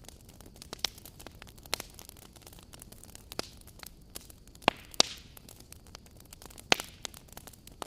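Wood fire crackling: sharp pops and snaps scattered over a soft steady hiss, the loudest two close together about five seconds in.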